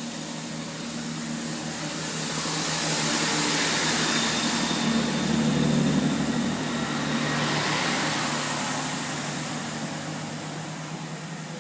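Class 165 Turbo diesel multiple unit pulling out of the station under power, its underfloor diesel engines running with a steady low drone over the rush of the train. The sound swells as it passes close by, then fades as it draws away.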